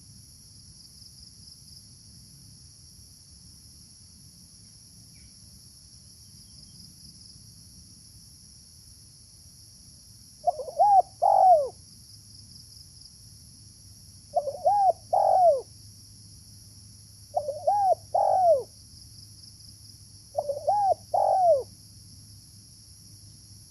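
Spotted dove (terkukur) cooing four times, each call a three-note coo, a few seconds apart. A steady high insect buzz runs underneath.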